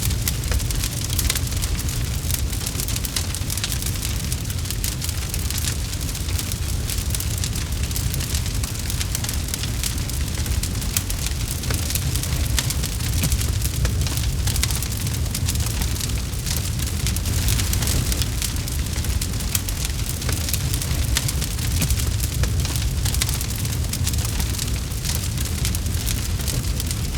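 Campfire burning, with a dense run of irregular crackles and pops over a steady low rumble of flames.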